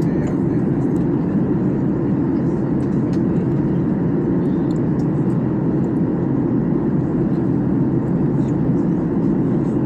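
Steady cabin noise of an airliner in flight on final approach, a constant low rush of engines and airflow with no change in level.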